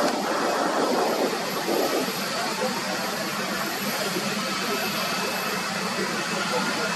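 Jet airliner engines running, a steady rushing noise that swells slightly in the first second or so.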